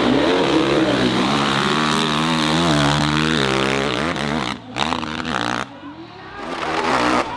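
Dirt bike engine revving hard on a steep hill climb, its pitch rising and falling as the throttle is worked. The engine sound drops away about four and a half seconds in, then picks up again near the end.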